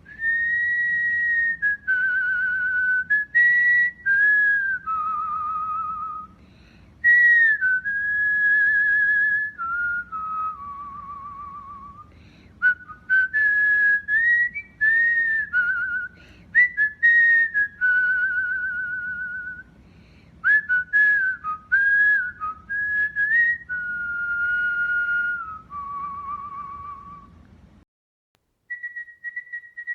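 Cockatiel singing a long whistled song: a string of clear whistle notes, some held with a quick wavering and some sliding up or down between pitches, broken by a few short pauses.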